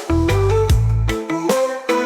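Instrumental roots reggae backing with a deep bass line, held chords and drum hits.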